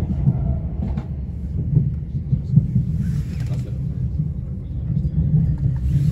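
Steady low rumble of a Southern Class 377 Electrostar electric multiple unit running along the line, heard from inside the carriage, with a few faint clicks and a brief hiss about three seconds in.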